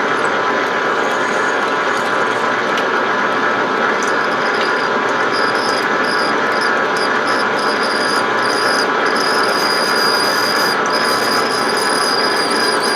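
Lathe running with a grooving tool plunging under power cross-feed into a pulley blank, cutting a belt groove: a steady machine and cutting noise. From about four seconds in, a thin high squeal comes and goes over it.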